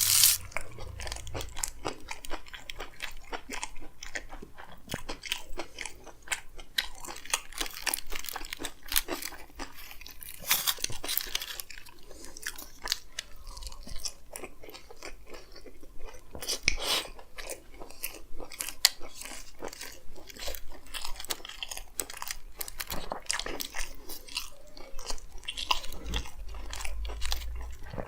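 Close-miked chewing of a chicken frankie wrap: continuous wet, irregular mouth sounds with soft crunches and smacks.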